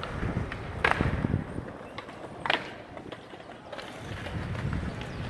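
City street background noise, a low uneven rumble, with two short sharp sounds about a second and a half apart.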